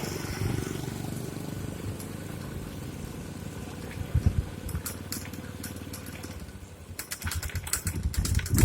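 Street ambience with a motor vehicle engine running steadily, briefly louder about four seconds in; near the end, wind starts buffeting the microphone with crackling and low thumps.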